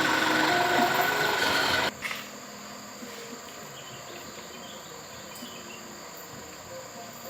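Dump truck engine running loudly, cut off abruptly about two seconds in, leaving a steady chorus of insects calling.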